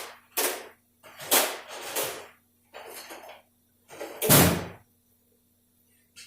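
A series of short metallic clunks and scrapes from transmission parts being handled and moved, with a heavier clunk about four seconds in.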